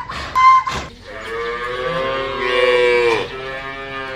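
Cow mooing: one long, drawn-out moo starting about a second in, then a second moo beginning near the end. A short loud sound comes just before the first moo.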